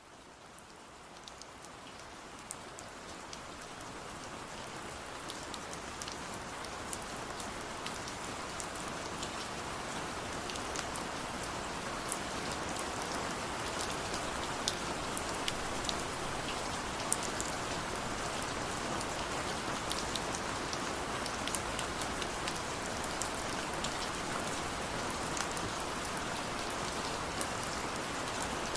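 Steady rain, a continuous hiss scattered with many sharp individual drop hits, fading in over the first several seconds and then holding steady.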